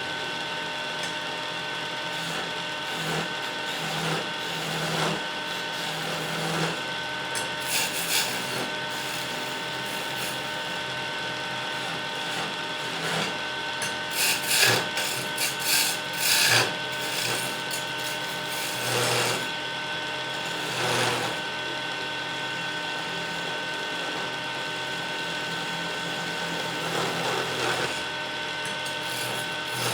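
Wood lathe running with a steady motor hum while a turning tool cuts and scrapes the spinning wood. The scraping comes in uneven bursts, loudest a little past the middle.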